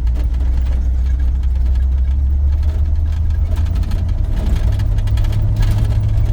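Engine of a 1983 GMC C2500 pickup droning inside the cab while driving, with road noise; the low drone steps up in pitch about four and a half seconds in.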